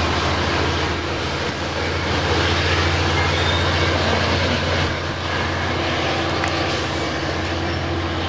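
Diesel locomotive of a commuter train, an EMD F59PH, running steadily with a constant low hum.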